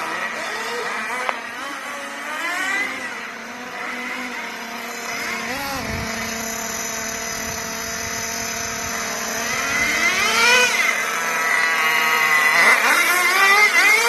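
Small nitro RC car engine running, revved up several times with rising and falling pitch between stretches of a steadier high-pitched note; it gets louder near the end.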